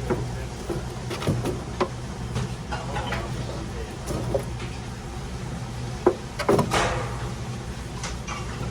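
Industrial radish-slicing machine running: a steady motor hum with irregular clacks and knocks, the sharpest about six seconds in.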